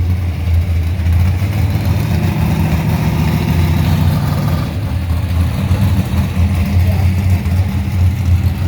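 A car engine running at a low, steady idle with a deep rumble, from a show car creeping up behind: the Batmobile replica.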